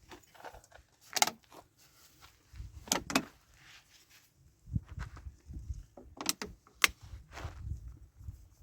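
Scattered sharp knocks and clicks, about five, with a low rumble between them from about two and a half seconds in.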